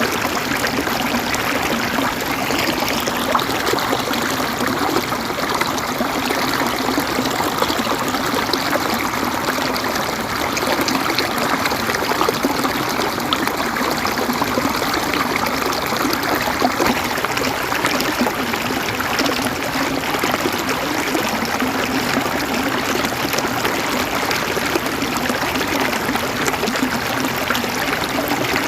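River water flowing and gurgling over rocks, a steady rushing with fine splashing detail.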